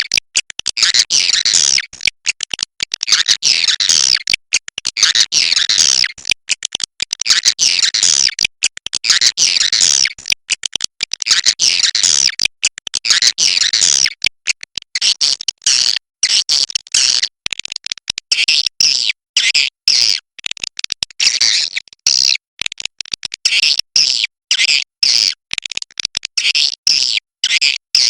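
Swiftlet 'inap' call: dense, rapid high twittering chirps in quick bursts separated by short, abrupt breaks. This is the roosting call played in swiftlet houses to get the birds to settle and stay.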